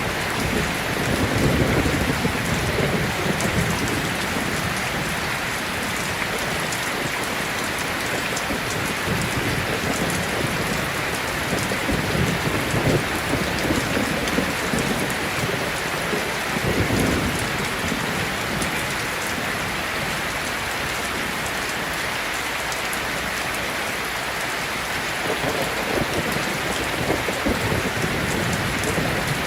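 Steady heavy rain falling, with low rolls of thunder rising and fading several times.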